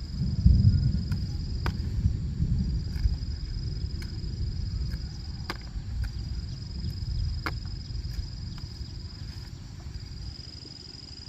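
Insects trilling in one steady high-pitched note, broken by short gaps every few seconds, over a low rumble that is loudest in the first few seconds and fades toward the end. A few sharp clicks sound through it.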